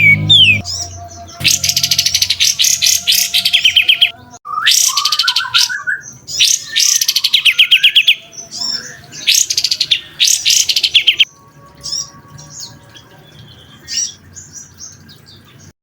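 Recorded songbird song of the fast, harsh 'tembakan' kind: rapid high trills in bursts of about two seconds, with a lower warbled phrase between them, thinning to scattered faint chirps over the last few seconds before it stops.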